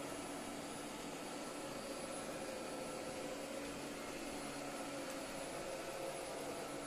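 Midea M7 robot vacuum running: a steady whir of its suction fan, with faint humming tones over it.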